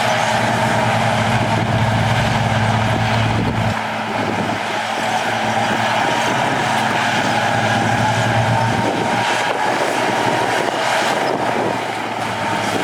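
Heavy diesel earthmoving machinery running steadily, with a steady high whine over the engine note. The deep engine hum thins out about four seconds in.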